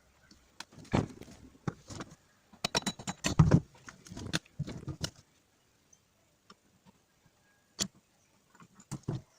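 Irregular clicks and knocks of metal parts and hand tools being handled during a starter motor strip-down, busiest about three to five seconds in, then a few single clicks near the end.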